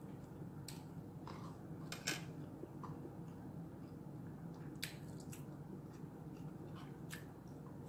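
Faint chewing and mouth clicks of someone eating rice and roasted salmon by hand: a handful of short, sharp smacks spread irregularly over a steady low hum.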